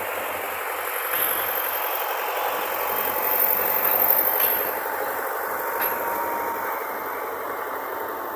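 Heavy farm machinery's diesel engine running, a steady loud mechanical noise that swells briefly about halfway through.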